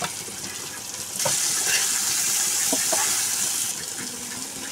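Sliced potatoes and green beans sizzling in hot oil in a steel kadai. The sizzle turns loud about a second in and eases off near the end, with a few light clinks of a steel spoon stirring against the pan.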